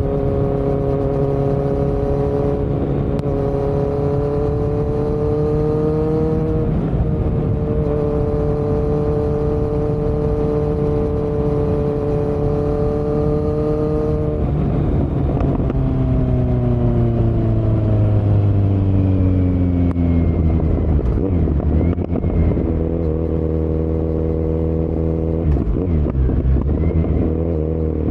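2018 Kawasaki Z900's inline-four engine through a Yoshimura muffler and Delkevic headers with no dB killer, heard from the rider's seat. The revs climb slowly in gear, with a quick break for a gear change about seven seconds in, then hold steady. About halfway through the revs fall for several seconds as the bike slows, and near the end the engine settles into a steady run again.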